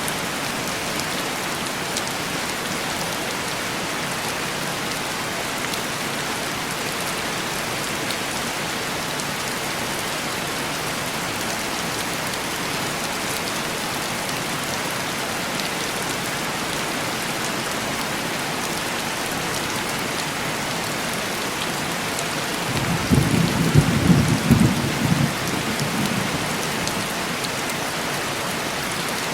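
Steady heavy rain beating on window glass. Near the end a low rumble of thunder swells and fades over a few seconds.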